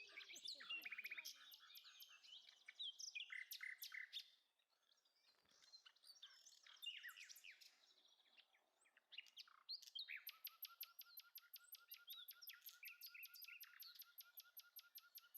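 Songbirds chirping and calling, faint. In the last five seconds one bird keeps up a fast, even series of repeated notes.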